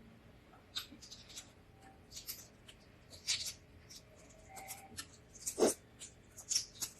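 Close-up mouth sounds of eating balut: short, irregular bursts of wet chewing and smacking, one louder just past halfway.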